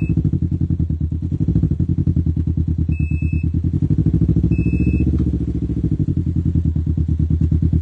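Can-Am Ryker 600's Rotax two-cylinder engine idling through an RLS Carbon Series exhaust, a steady, evenly pulsing rumble that swells slightly twice. A short high beep sounds twice in the middle, with the vehicle still in reverse.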